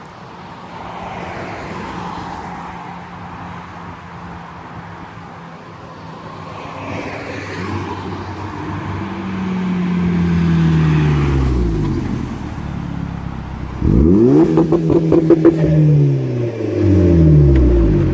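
Tuned turbocharged Volkswagen with a catless downpipe and Magnaflow cat-back exhaust approaching, then accelerating hard past at full throttle with a gear change, the exhaust note rising in pitch and then dropping as it goes by. It grows louder over the first half and is loudest in the last few seconds.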